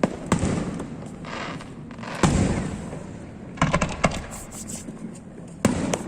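Aerial fireworks bursting: a string of sharp booms, the loudest about two seconds in, with a patch of crackling between the first bangs and a quick cluster of reports near the middle.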